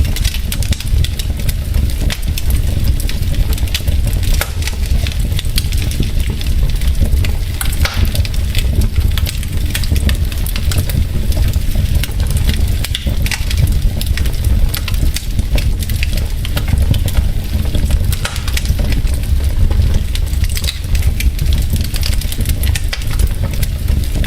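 Wood logs burning in a fireplace, crackling with many small, irregular sharp pops over a steady low rumble.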